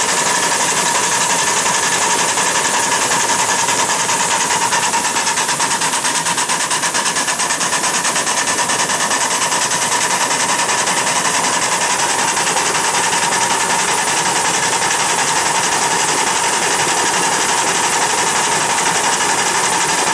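A train running steadily with a continuous mechanical clatter and a constant high whine.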